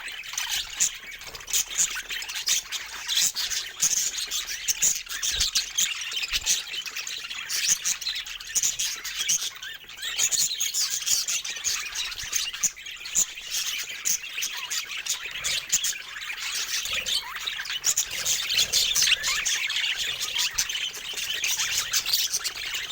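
Several budgerigars chirping and chattering without a break, with squawks mixed in among fast, high-pitched warbling notes.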